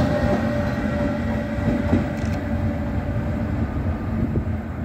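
Intercity Notte passenger train running through the station and pulling away, its electric locomotive passing last: a steady rumble of wheels on rail with a locomotive hum that fades out about three seconds in as the train recedes.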